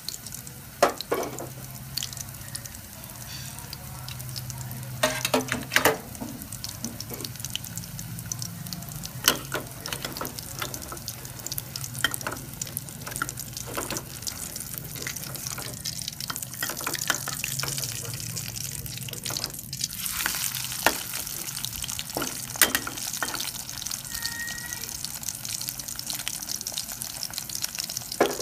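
Fish-paste patty sizzling and crackling in hot oil in a steel wok, with a few sharp knocks of a spatula against the wok. A faint low hum runs underneath.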